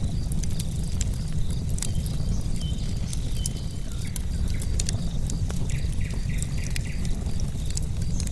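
Wood fire crackling with frequent sharp pops over a low steady rumble, while crickets keep up a steady high chirring and a bird chirps a few times.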